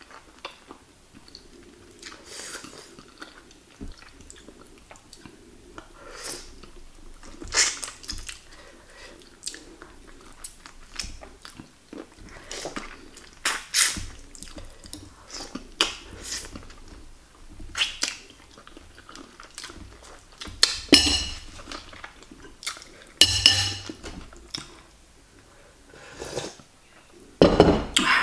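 Close-up eating sounds of someone chewing and biting braised chicken feet (ceker ayam), with irregular wet mouth clicks and smacks. The sounds come more often and louder in the last third, with a loud burst just before the end.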